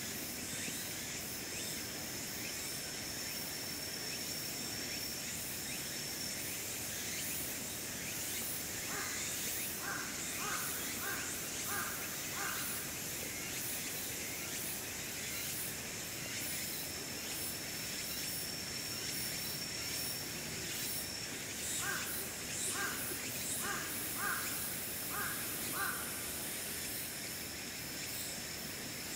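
Two runs of short, evenly spaced bird calls, each about six calls over three or four seconds: the first about a third of the way in, the second near the end. Beneath them runs a steady high hiss, with a thin high whine that comes and goes.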